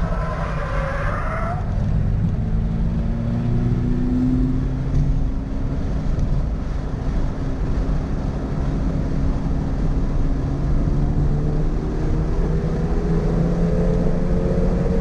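Toyota GR86's 2.4-litre flat-four running hard on track. Its pitch drops over the first second or so as the car slows, then climbs slowly and steadily as it accelerates through a long stretch in one gear.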